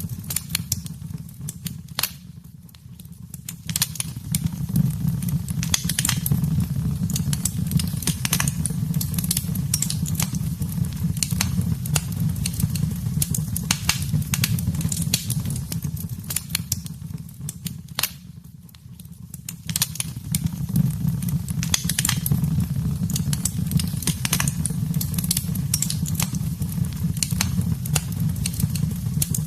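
Wood fire in a fireplace crackling, with frequent sharp pops and snaps over a low steady rumble of the flames. The crackling eases off twice, briefly, about two seconds in and again a little past the middle.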